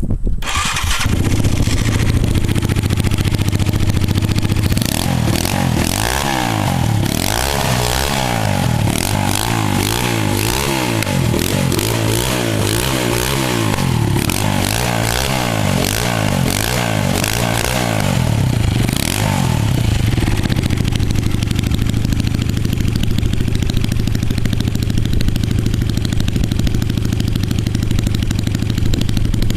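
Kikker 5150 Hardknock motorcycle's 200cc single-cylinder engine firing up and idling. It is then blipped repeatedly, the pitch rising and falling over and over for about fifteen seconds, before settling back to a steady idle.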